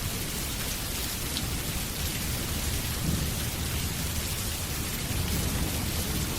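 Steady rain falling, an even hiss with a low continuous rumble underneath.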